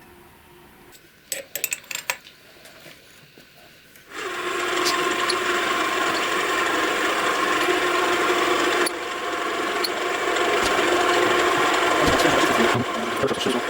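A few light clicks, then about four seconds in a power tool starts grinding metal and runs steadily with a motor hum under it, easing off briefly twice.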